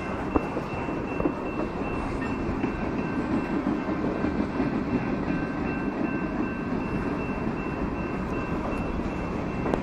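Train cars rolling past: a steady rumble of wheels on rail with a few sharp clicks, and a faint steady high whine over it.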